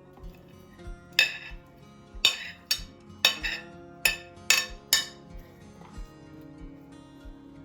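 Kitchenware clinking: about seven sharp clinks and clatters in quick succession, the loudest sounds here, over soft background music.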